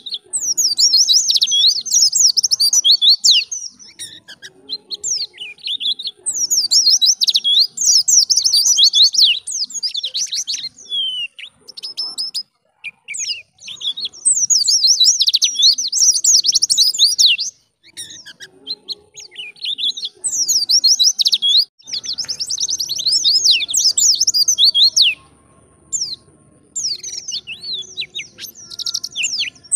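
White-eye (pleci) singing: fast, high-pitched twittering phrases of about two to four seconds each, repeated after short pauses.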